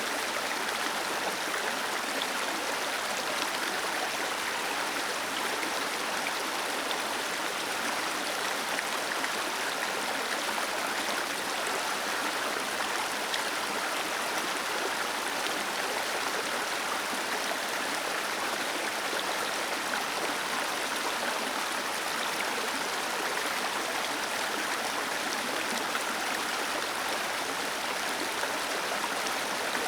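Small waterfall cascading, a steady rush of falling and splashing water.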